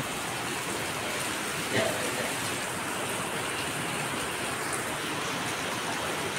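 Steady rain falling on a wet paved courtyard, an even hiss throughout. About two seconds in, a short louder sound stands out briefly above the rain.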